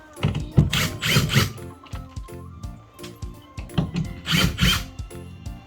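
A power tool running in short bursts, often two close together, with background music underneath.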